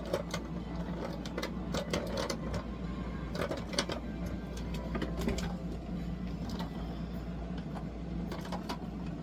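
Small plastic makeup items, such as lipstick tubes and caps, clicking and knocking irregularly as they are picked up and sorted through, over a steady low background hum.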